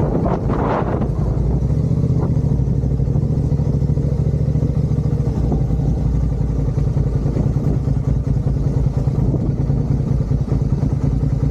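Motorcycle engine running steadily at low speed during slow turns, with a brief clatter in the first second.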